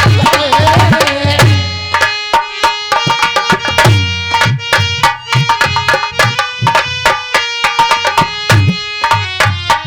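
Instrumental break in a Dhola folk song: rapid hand-drum strokes over a steady held tone, coming in as a sung line ends about a second and a half in.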